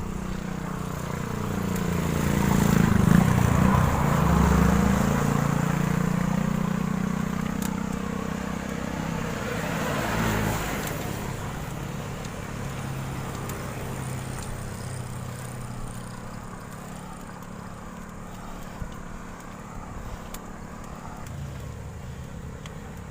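Motor vehicles passing on the road, their engines swelling and dropping in pitch as they go by, the loudest about 3 seconds in and another about 10 seconds in, then a fainter engine hum.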